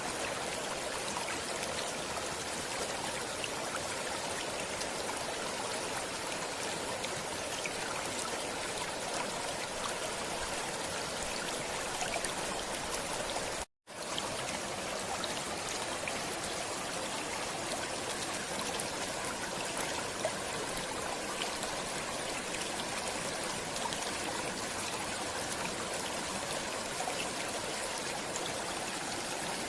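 Water flowing steadily in a stream, an even rushing and trickling. It cuts out to silence for a split second about halfway through, then goes on unchanged.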